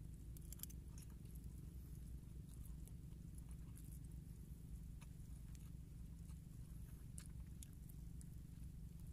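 Faint chewing and scattered small clicks of a spoon scraping sticky rice from its wrapper, over a low steady rumble.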